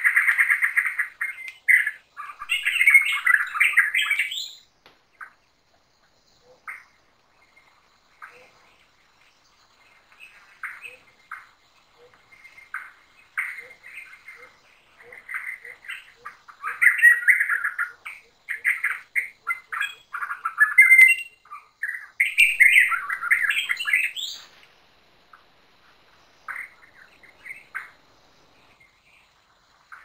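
Forest birds chirping and squawking in loud bursts, once near the start and again through much of the second half. In the quieter middle stretch a soft series of low notes gradually speeds up.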